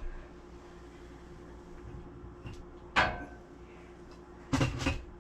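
Kitchen handling sounds: one sharp knock with a brief ring about three seconds in, then a few quick knocks near the end, like a cupboard or drawer being opened and shut.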